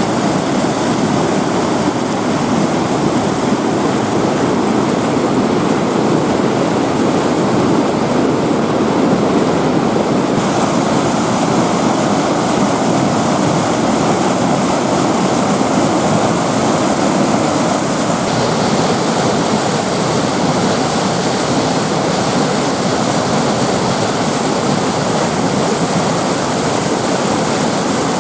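Loud, steady rush of river rapids pouring over a small waterfall drop, close to the microphone.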